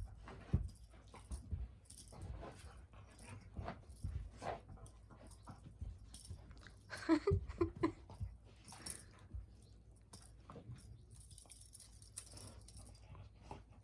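Pets playing together: scattered soft thumps and scuffles of paws and bodies, with a short pitched animal call about seven seconds in.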